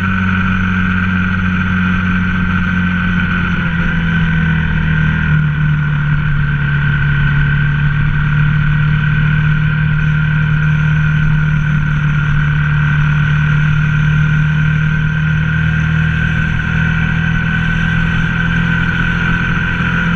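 Ducati ST4S's 90-degree L-twin engine running at steady cruising revs while riding, its pitch easing down slightly over the first few seconds and then holding steady.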